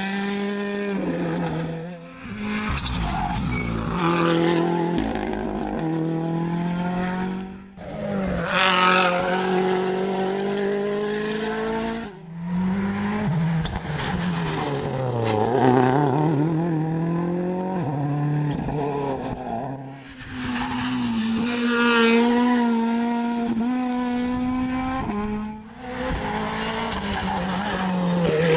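Rally cars driving flat out on a special stage, one after another, engines revving high and dropping in pitch through gear changes and braking, with sudden breaks between passes.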